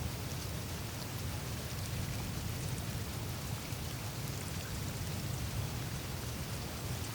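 Meltwater trickling and seeping through the melting surface ice of a glacier on the Greenland ice sheet: a steady hiss with faint scattered ticks, over a low rumble.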